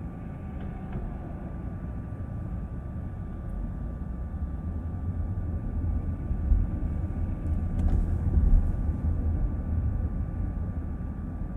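Low, steady road and tyre rumble inside a moving car's cabin, with a faint steady whine above it. The rumble swells about halfway through, and a few brief knocks come around two thirds of the way in, like tyres going over bumps or road joints.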